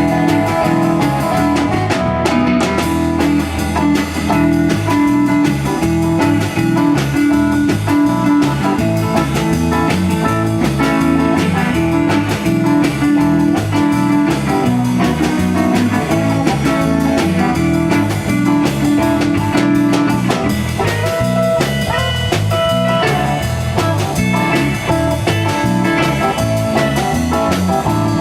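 A band playing a blues-rock instrumental passage: guitar over a drum kit.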